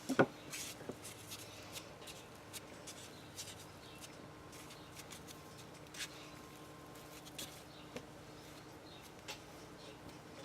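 Hands handling craft materials: light rustles and small taps of paper ribbon and a stick being worked, with two sharp knocks right at the start.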